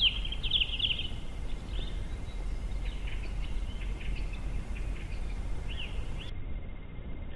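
Small birds chirping in quick clusters of short high notes, loudest in the first second and then fainter and scattered, over a steady low background rumble.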